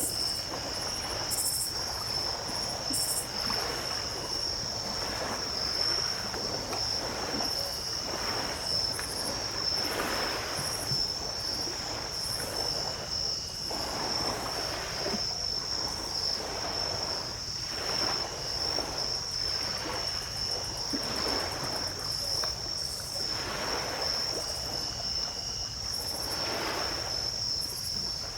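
Crickets trill steadily at a high pitch, with shorter chirps breaking in every second or two. Underneath, small waves wash onto the beach in soft swells every few seconds.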